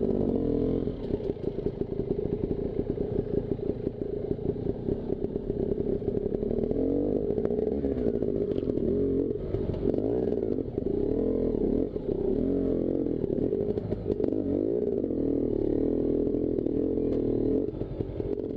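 Two-stroke dirt bike engine being ridden on a trail, its revs rising and falling again and again as the throttle is worked.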